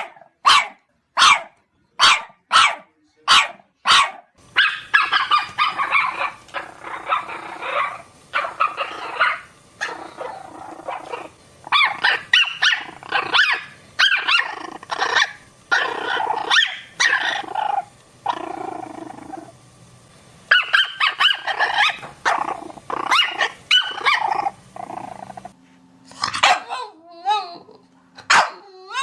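Dog barking: sharp single barks about one and a half a second for the first four seconds, then a long stretch of rapid, excited barking, and near the end a few higher cries that slide up and down in pitch.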